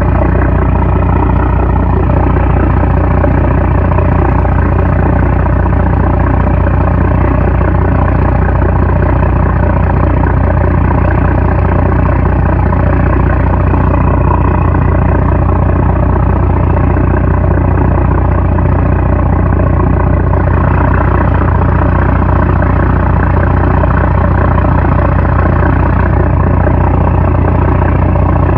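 Loud, steady drone of a 750-horsepower trawler's diesel engine running at constant speed, unchanging throughout.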